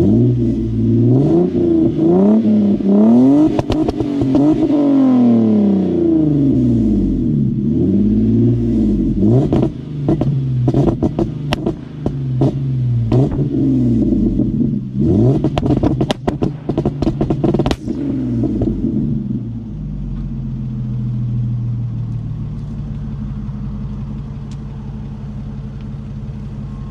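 Straight-piped Lexus GS300 2JZ-GE VVT-i inline-six, with no cats or mufflers, revved up and down again and again. From about ten seconds in, sharp exhaust pops and crackles come between the revs. Near the end it settles to a steady idle.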